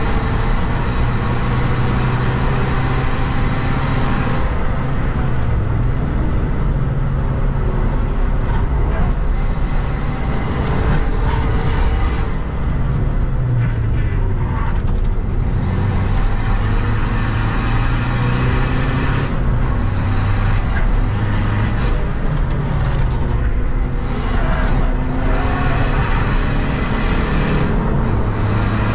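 Seat Ibiza FR's 2.0-litre common-rail diesel engine (CFHD) pulling hard at track pace, heard from inside the cabin together with road and tyre noise. The engine note shifts now and then.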